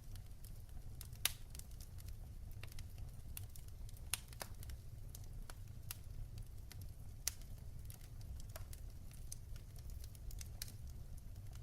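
Fireplace fire crackling: scattered sharp pops and ticks over a low steady rumble, with three louder pops about a second, four seconds and seven seconds in.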